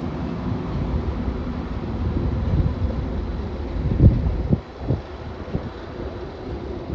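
Two Class 90 electric locomotives running coupled as a light engine, a low rumble that slowly eases as they move away. Wind buffets the microphone, with a couple of gusty thumps about four and five seconds in.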